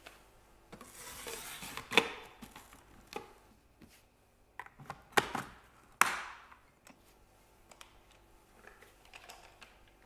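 Plastic parts of a Dyson V7/V8 cordless vacuum being handled with the motor off: a brief swish, then a few sharp clicks and knocks, the loudest about two, five and six seconds in.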